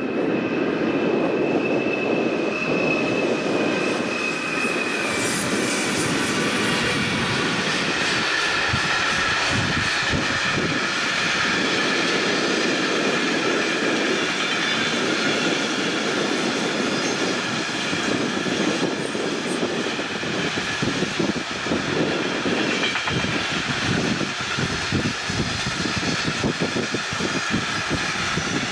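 Freight train wagons rolling past with a steady rumble of wheels on rails. A thin high whine from the wheels sounds over the first few seconds, and from about eight seconds in the wheels clack over the rail joints in quick, uneven knocks.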